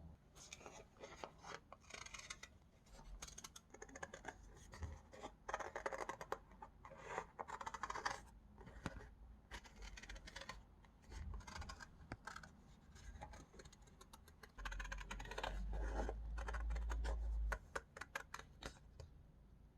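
Close-up crafting sounds of stickers and paper being handled: many short rustling and scratching strokes. About fifteen seconds in, a low rubbing rumble lasts about three seconds and is the loudest part.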